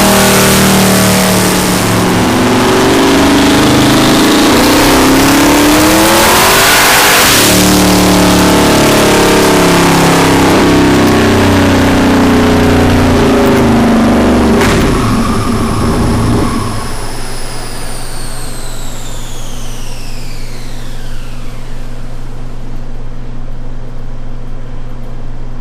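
Twin-turbocharged engine of a Gen V Camaro pulling hard, its pitch climbing and dropping back about two seconds in and again near seven seconds, then climbing again. About fifteen seconds in there is a sharp snap as it comes off load and settles to a steady idle, while a high turbo whine falls away over several seconds as the turbochargers spin down.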